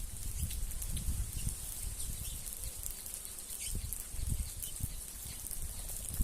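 Birds chirping in many short, scattered calls over a steady high-pitched insect drone, with irregular low thuds throughout.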